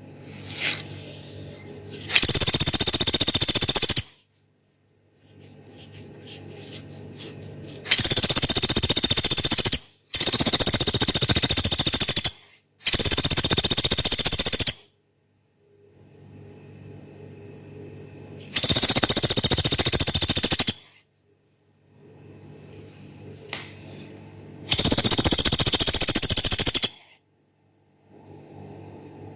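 Pelatuk beras, a small pygmy woodpecker, giving long, harsh, very fast rattling calls: six bursts of about two seconds each.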